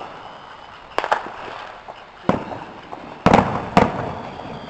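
Fireworks going off: a run of sharp bangs, some in quick pairs, the loudest a little past three seconds in, each trailing off in an echo.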